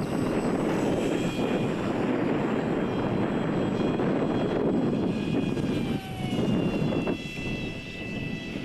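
Radio-controlled park jet's motor and propeller whining in flight, with the whine sliding down in pitch partway through as it passes. Heavy wind buffeting on the microphone runs under it.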